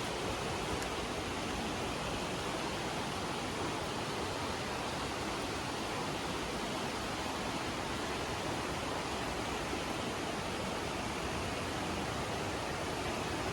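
Steady, unbroken rush of running water, a full hiss across low and high pitches.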